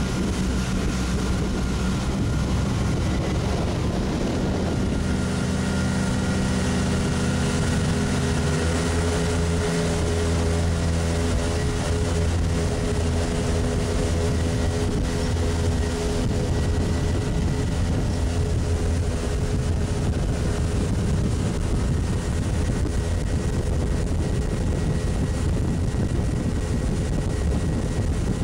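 New two-stroke boat engine running steadily under way during its break-in run, with wind and water rush over it. Its pitch shifts about five seconds in, then holds steady.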